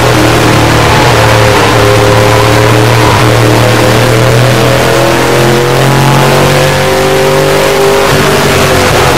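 Race truck engine heard from onboard, running hard at high revs without a break, its pitch easing and then picking up again about eight seconds in as the truck laps the track.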